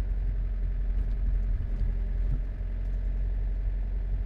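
Motorhome engine and road rumble heard from inside the cab while driving, a steady low drone.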